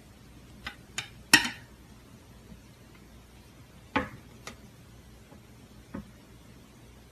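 Slime being handled, giving a few sharp pops and clicks at irregular spacing, the loudest about a second and a half in.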